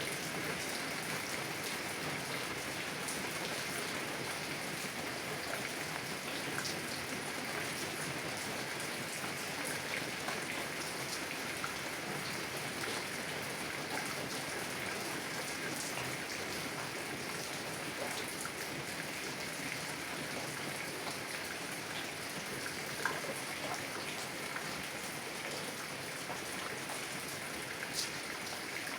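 Heavy rain falling on a car's windows and body, heard from inside the car: a steady hiss of rain dotted with individual drop hits, a couple of them louder near the end.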